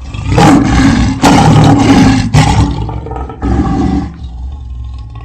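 Lion roar sound effect: two loud roars back to back, then a weaker third one that fades away.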